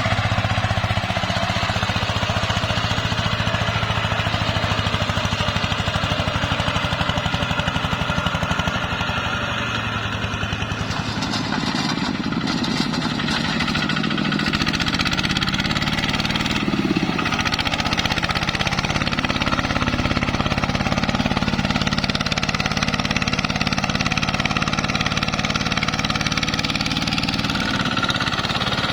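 ZT 155 tractor's engine running steadily while hauling a load of rice through mud; about a third of the way in its pitch wavers and glides for several seconds, then it runs steady again.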